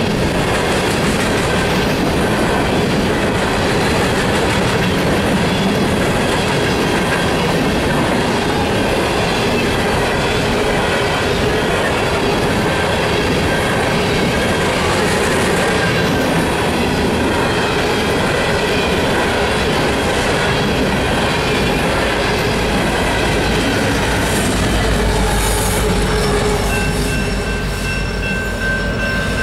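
Empty steel coal hopper cars rolling past at track speed, their wheels clattering over the rails with some wheel squeal. Near the end the sound changes to a deep locomotive rumble, with the steady ringing of a level-crossing bell.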